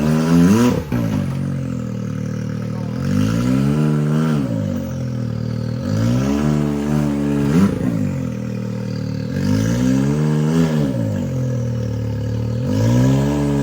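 Side-by-side UTV engine revving hard in repeated surges, rising and dropping back about every three seconds, as the machine works its way up a rock crawl.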